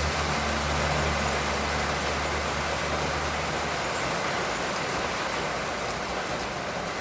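Heavy rain falling steadily in an even hiss. A low engine hum runs under it and fades out about halfway through.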